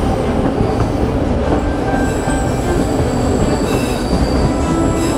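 Narrow-gauge passenger train running along the track: steady rumble and rattle of the car's wheels on the rails, with a high-pitched wheel squeal joining about two seconds in as the train takes a curve.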